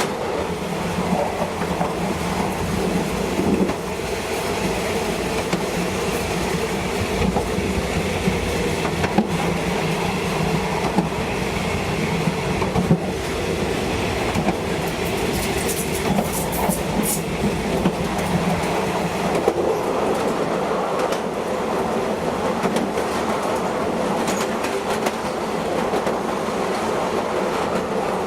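State Railway of Thailand train running, heard from on board: a steady rumble with wheels clicking over the rail joints. Brief high-pitched squeals come about halfway through.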